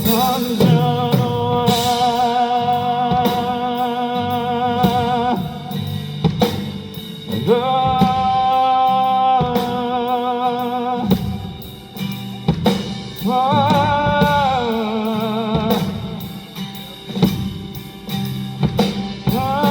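Live band music: a male singer holds long notes with a wavering vibrato, one sliding down about two-thirds of the way through, over a drum kit keeping a steady beat.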